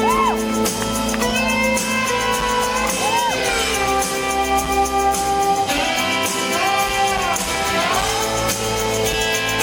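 Live country band playing an instrumental break in a large hall: sustained chords under a lead guitar line with notes that bend up and back down.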